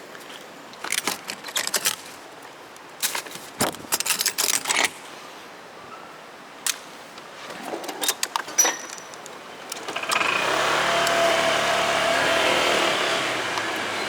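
Clinking and rattling handling noises in several short clusters, then about ten seconds in a motorcycle engine starts and runs steadily at idle.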